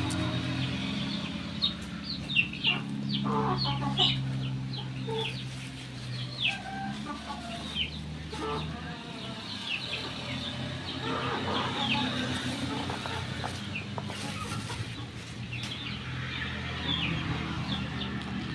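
Chickens clucking, with many short calls scattered through, over a steady low hum that eases off about halfway.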